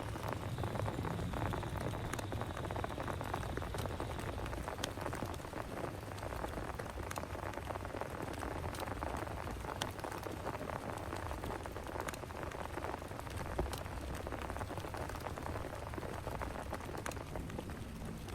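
Heavy rain falling steadily, with many sharp separate drop hits over a dense hiss.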